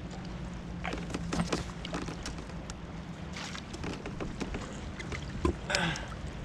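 Scattered small clicks and knocks of gear being handled on a plastic fishing kayak, over water and wind noise. A low steady hum runs for the first couple of seconds, and a short rush of noise comes near the end.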